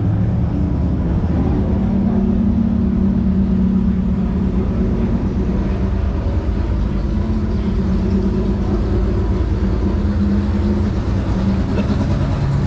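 Race car engine running steadily with a low rumble, holding an even pitch with no revving.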